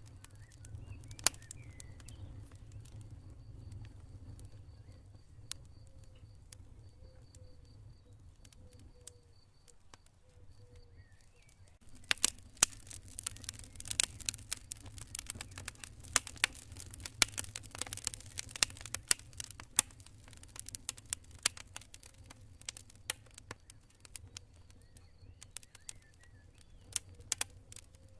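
Campfire crackling, with sharp snaps and pops over a low steady rumble; the crackling grows much busier about twelve seconds in. A cricket chirps in a faint, pulsed high trill during the first half.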